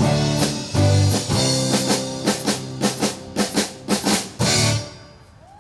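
Live rock band playing the closing bars of a song: drums and band striking a run of accented hits together, about four a second, then a final held chord that stops just before five seconds in.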